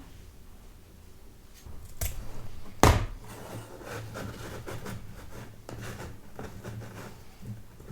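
Household handling sounds: a click, then a sharp knock about three seconds in, followed by soft irregular rustling and tapping.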